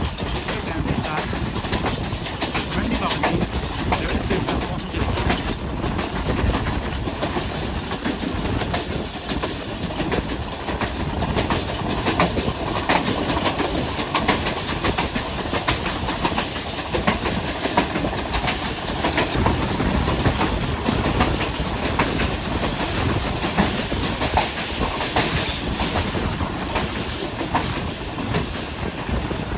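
Passenger train running at speed: steady rumble and clatter of the coach's wheels over the rail joints, with a faint high-pitched wheel squeal near the end.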